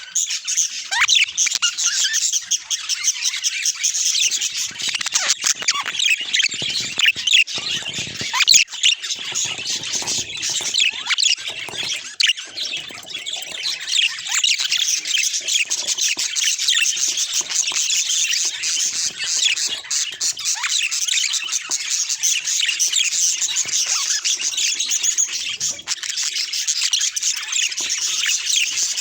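A group of budgerigars chattering and warbling continuously: a dense stream of fast chirps, squeaks and short squawks.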